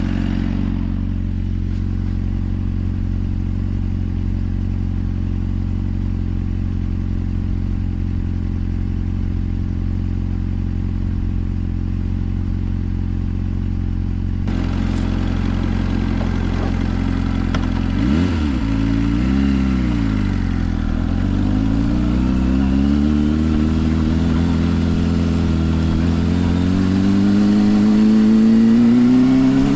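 Suzuki GSR 400's inline-four engine through a Yoshimura exhaust, running at steady revs. A little past halfway the revs dip and rise twice, then climb steadily as the bike accelerates.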